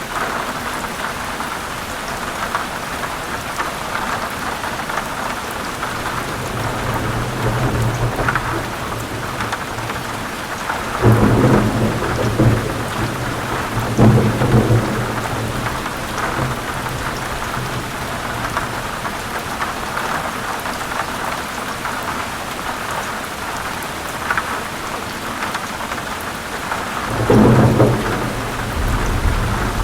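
Heavy steady rain with thunder. A low rumble builds about a fifth of the way in and peaks in two loud claps near the middle, and another loud clap of thunder comes near the end.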